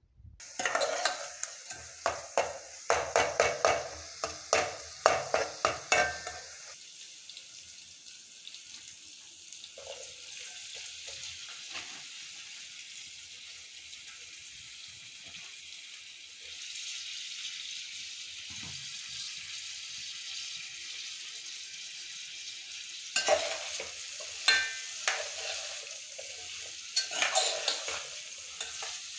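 Frying masala sizzling in an aluminium pot, with a steel ladle scraping and stirring against the pot. The stirring clatters for the first six seconds and again near the end; between, there is a steady sizzle that grows a little louder about halfway through.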